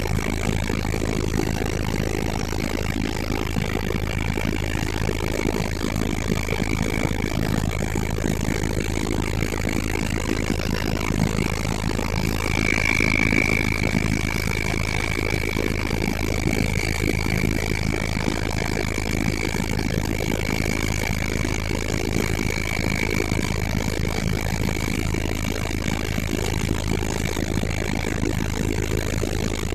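Helicopter engine and rotor running steadily in flight: a constant low drone with a thin high whine over it that grows stronger about halfway through.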